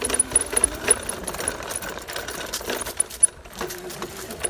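Dirt bike being ridden over bumpy ground: a rapid mechanical clatter with scattered knocks and jolts.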